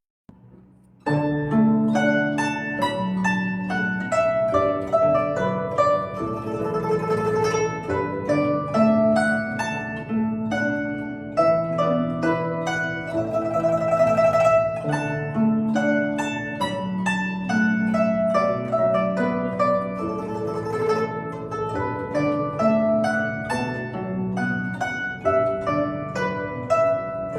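Guzheng playing a plucked melody over sustained low piano notes, beginning after about a second of silence.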